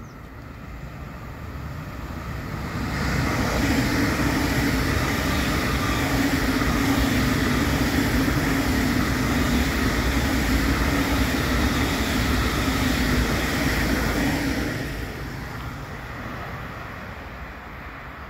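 Deutsche Bahn ICE electric train passing close by: rolling wheel and air noise with a low hum that builds over the first few seconds, holds steady for about ten seconds, then fades as the train moves away.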